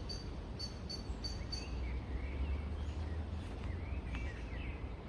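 Small birds calling outdoors: a quick run of short, evenly repeated high notes in the first second and a half, then softer twittering chirps, over a steady low rumble.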